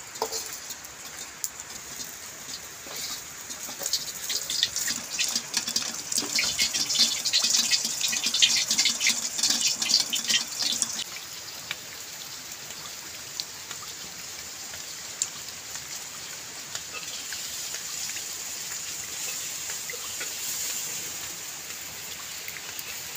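Rain falling, with a dense patter of drops for about the first ten seconds, then settling into a steady, even hiss.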